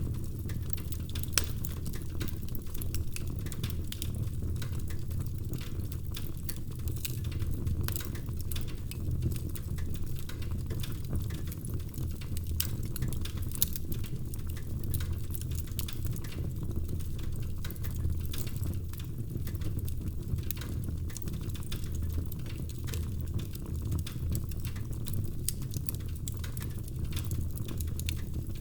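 Wood fire crackling in a fireplace: frequent sharp snaps and pops over a steady low rumble of the flames.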